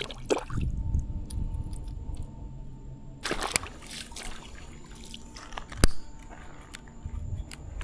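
Water dripping and sloshing as a small caught fish is handled in the shallows of a creek, with one sharp click a little before six seconds.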